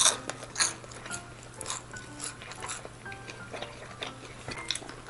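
Close-up crunching of a crispy fried shrimp tail being chewed: irregular crisp crackles, loudest at the first bite, over a low steady hum.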